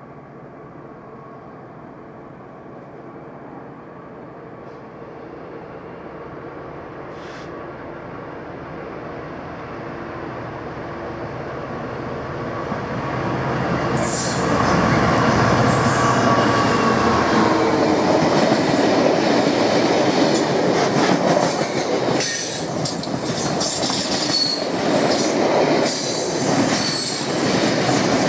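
Class 66 diesel locomotive, an EMD two-stroke, approaching with a freight train, growing steadily louder for about fourteen seconds, then passing close with a brief wheel squeal. After it the wagons roll by with a rapid clatter of wheels over the rail joints.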